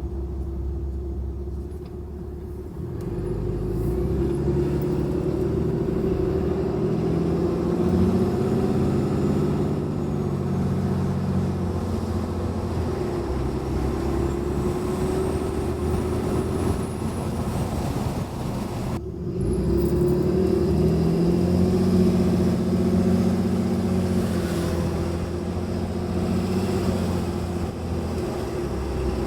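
Ram 2500's 6.7 Cummins inline-six turbodiesel with an S&B cold air intake, heard from the cab with the windows down as the truck accelerates. Engine and intake sound climb in pitch, dip sharply at a gear shift about 19 seconds in, then climb again.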